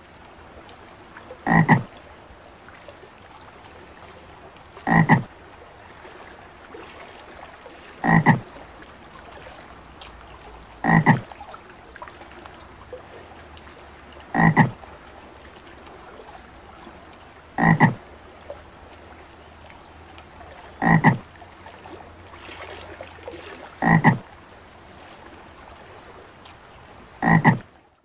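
A frog croaking: one short croak about every three seconds, nine in all.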